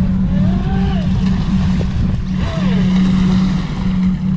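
Radio-controlled speedboat's electric motor whining out on the water, its pitch rising and falling with throttle, over a steady low hum and wind rumble on the microphone.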